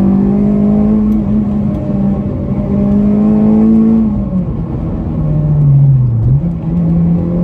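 Modified Honda EP3 Civic Type R's 2.4-litre K24 four-cylinder engine pulling hard, heard from inside the cabin. The revs climb steadily, fall away about four seconds in and sag for a couple of seconds, then pick back up near the end.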